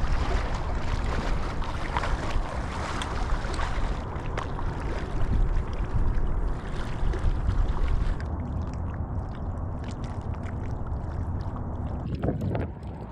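Water sloshing and splashing in irregular bursts, with wind buffeting the microphone as a low rumble. The splashing thins out after about eight seconds.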